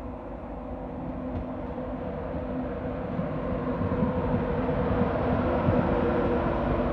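LNER Class 91 electric locomotive and its train of coaches rumbling along the rails, growing steadily louder as it draws closer and runs alongside.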